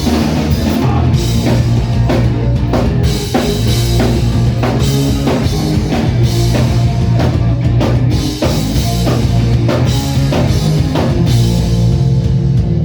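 Live rock band playing loudly: guitar over a steady driving drum-kit beat, between sung lines of the song.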